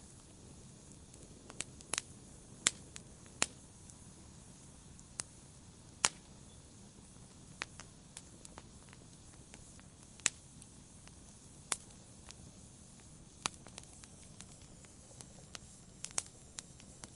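Wood fire in a fireplace crackling: sharp, irregular pops and snaps every second or so over a soft, steady hiss of burning.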